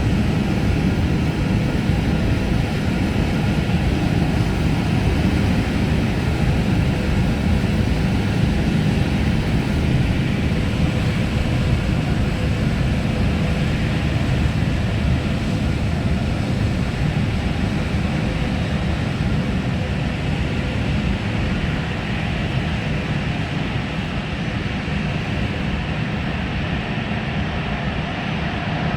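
Airbus A320 airliner's jet engines running at taxi power: a steady low rumble with faint whining tones, easing off slightly over the last ten seconds or so.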